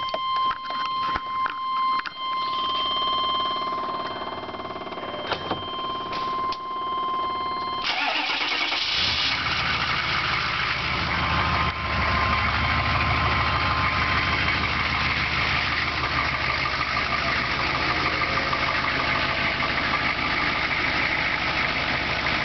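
Cold start of a GM K2500 pickup's 6.5-litre turbo-diesel V8: first a steady electronic warning tone with a few clicks while waiting, then about eight seconds in the engine cranks and fires, builds over a few seconds and settles into a steady diesel idle.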